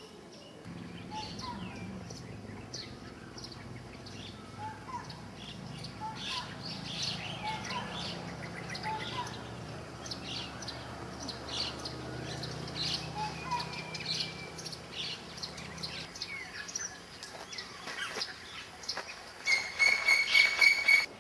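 Small birds chirping and calling in many short high notes, over a low steady hum that stops about three-quarters of the way through. Near the end a much louder, high, rapidly pulsing call sounds for about a second and a half.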